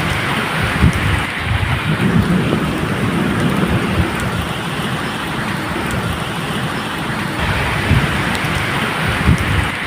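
Medium rain falling steadily, with low, irregular rumbles of thunder underneath.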